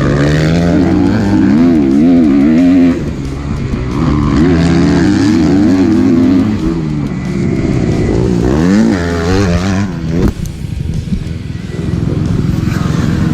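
Four-stroke single-cylinder engine of a Kawasaki KX250F dirt bike revving up and down over and over as the throttle is worked. About ten seconds in there is a sharp knock, and the engine drops to a lower, steadier sound.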